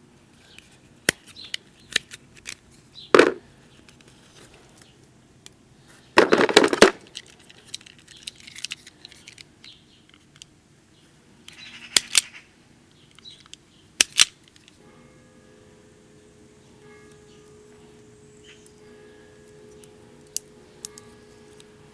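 Hand tools working on electrical wire: sharp snips and clicks of cutters or strippers, with a longer scraping rasp about six seconds in, and a few more snaps further on.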